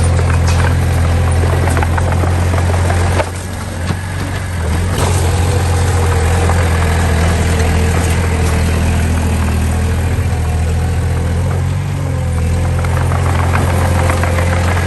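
Diesel engine of a heavy earthmoving machine running steadily close by, with a deep, even note; it eases off briefly about three seconds in, then picks back up.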